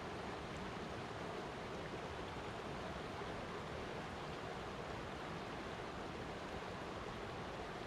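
Flowing water rushing steadily, an even unbroken hiss and rumble with no changes.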